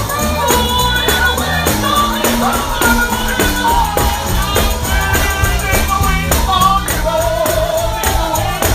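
Live gospel singing with a band: a voice carrying the melody over bass and a steady beat, with a tambourine shaking along.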